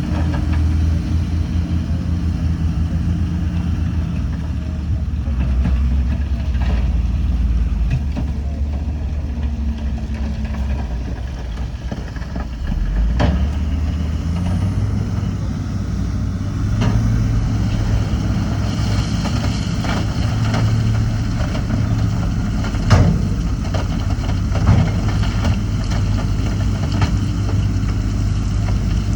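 Heavy diesel earthmoving machinery running under load with a steady low drone; the engine note rises and holds higher about halfway through. Several sharp metallic clanks come in the second half.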